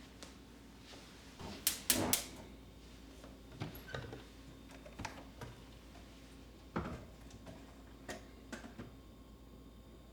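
Light clicks and knocks of small objects being handled, a quick cluster of sharper ones about two seconds in, then single taps every second or so.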